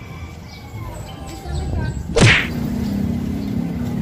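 A whoosh transition sound effect: one fast, loud swish falling in pitch, about two seconds in, over quieter background sound. A low steady hum comes in after it.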